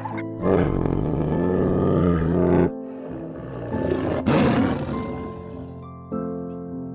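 An animal roaring over background music: a long, rough roar with a low wavering pitch, then a shorter one about four seconds in.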